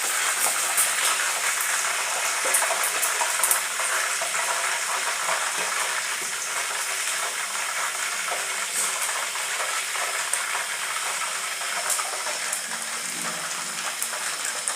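Chicken pieces deep-frying in hot oil: a steady sizzle with dense crackling and popping.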